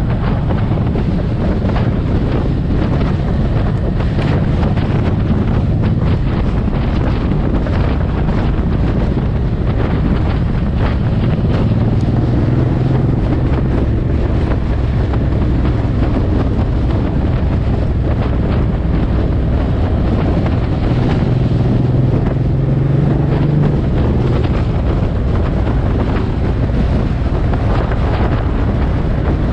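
Suzuki M109R's 1783 cc V-twin engine running under way at road speed, its note shifting as the throttle changes, under heavy wind buffeting on the microphone.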